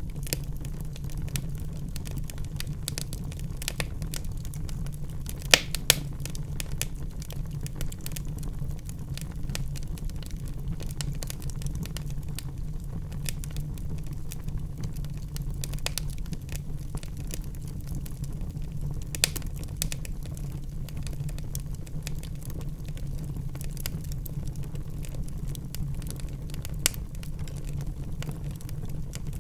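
Wood fire crackling in a fireplace: a steady run of small pops and snaps with a few louder sharp cracks, over a constant low hum.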